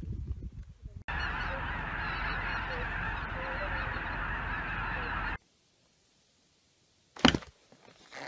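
A large flock of geese calling in flight, a dense din of many overlapping honks that starts abruptly about a second in and cuts off about five seconds in. A brief, sharper noise follows near the end.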